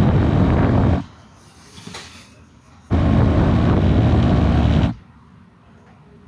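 Wind noise buffeting a GoPro's own microphone on a moving Kawasaki KLX150 dirt bike, all but drowning the engine. It comes in two loud stretches, dropping away about a second in and again at about five seconds, with quieter gaps between.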